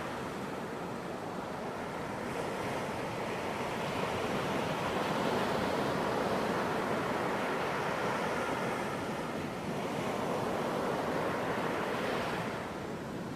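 Ocean waves breaking and washing on a beach, a continuous surf rush that swells up in the middle and eases off near the end.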